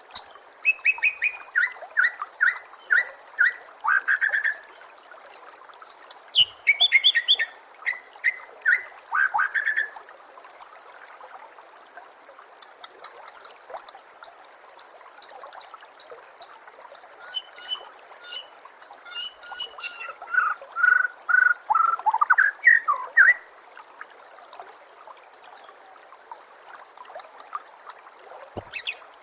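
White-rumped shama song: bursts of rapid, varied whistles and chattering notes with quieter gaps between the phrases, over a steady trickle of running water.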